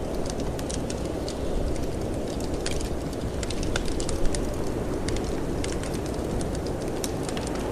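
Wood fire crackling in a fireplace: many small, irregular pops and snaps over a steady low rush of wind, with one louder pop a little past halfway.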